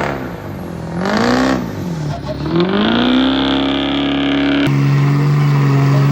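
Pickup truck engine revved hard in several rising and falling surges, then held high for a second or two. It cuts to a steady lower drone near the end.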